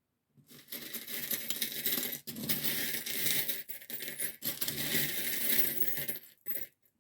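A deck of tarot or oracle cards being shuffled by hand: a dense papery rustle and clatter lasting about six seconds, with a few brief breaks between shuffles.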